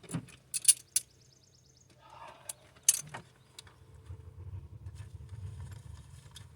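Metal tools and loose hardware clinking as they are picked up off the engine, with a quick run of ratchet-like clicks about a second in. A faint low rumble follows in the second half.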